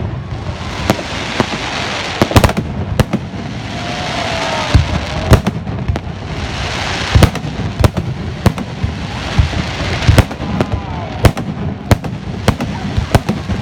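Fireworks going off: sharp bangs at irregular intervals, often several in quick succession, over a steady crackling hiss.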